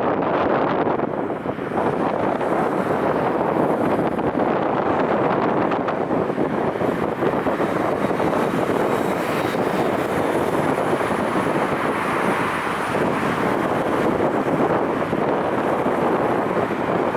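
Strong wind buffeting an unshielded microphone, loud and steady throughout. Around the middle a faint high whine rises above it, from a DHC-8-Q200 turboprop taking off.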